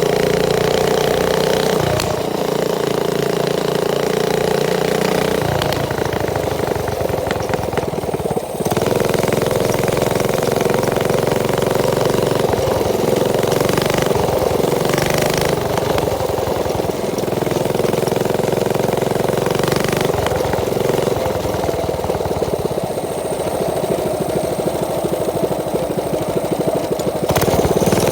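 Mini bike's small engine running steadily, its pitch shifting up and down a few times as the throttle changes.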